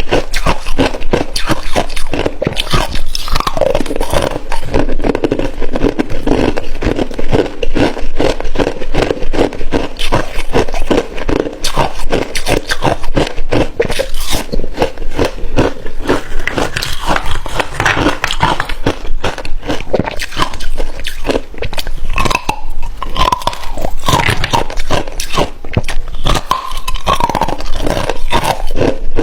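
Hard ice being bitten and chewed close to the microphone: dense, continuous crunching.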